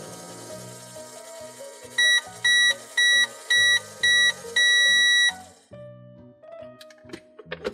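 Toy microwave's electronic beeper sounding five short, loud beeps and then one longer beep, the microwave-timer signal that the 'cooking' is done, over background music.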